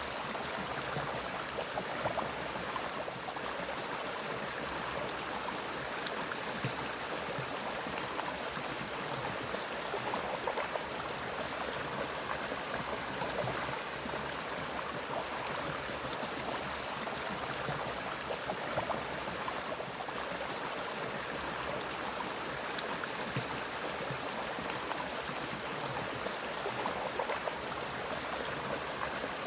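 Mountain stream flowing and gurgling steadily over rocks, with a steady high-pitched tone above the rush of water.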